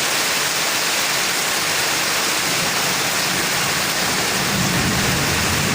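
Heavy rain falling steadily: a dense, even hiss of rain on surfaces, with a low rumble building near the end.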